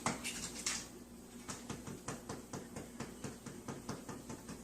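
A quick run of light clicking taps, about four a second, starting about a second and a half in after a few scattered clicks.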